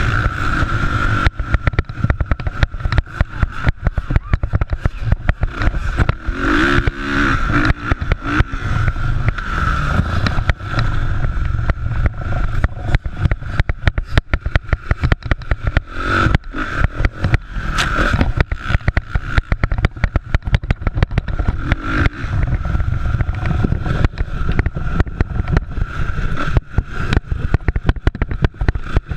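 Motocross motorcycle engines running and revving during a race, with a heavy rumble and frequent crackling on the microphone.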